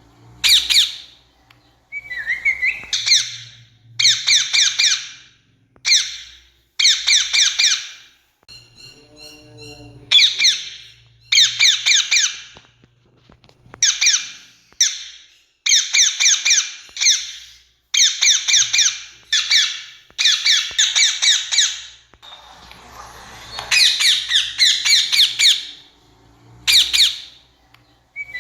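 Rose-ringed parakeets giving harsh, shrill screeching calls in repeated bursts of about a second each, every burst a rapid run of rattling notes, with short pauses between. About nine seconds in there is a brief, softer sound of a different pattern.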